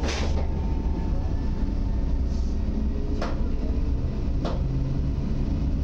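EN57 electric multiple unit heard from inside the carriage while running: a steady low rumble with a few sharp clicks from the running gear, one right at the start and two more about three and four and a half seconds in.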